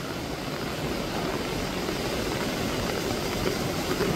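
Steady rain, heard as an even hiss with no distinct drops.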